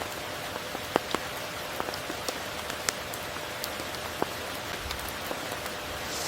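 Steady tropical rain falling, with individual drops striking close by in sharp taps scattered through the hiss, the loudest about a second in.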